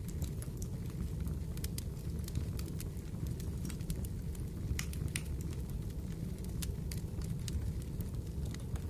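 Fireplace fire crackling: a steady low rumble with scattered sharp pops and snaps, several a second.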